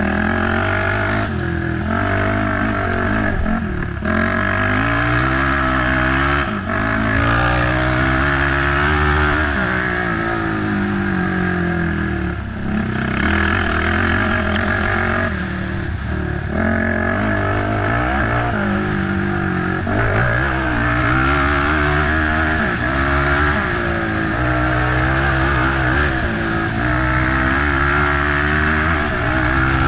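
Racing ATV engine revving hard, its pitch climbing and falling again and again, with short dips where the throttle is closed.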